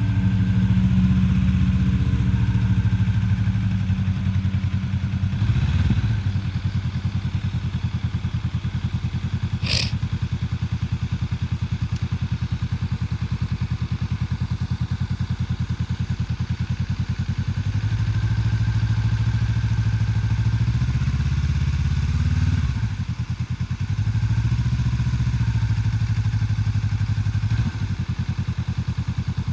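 Motorcycle engine running at idle with a rapid steady pulse. Its note dips and recovers around six seconds in and again several times between about eighteen and twenty-seven seconds, as the clutch is eased out into the friction zone and pulled back in before the engine can stall. A single sharp click sounds about ten seconds in.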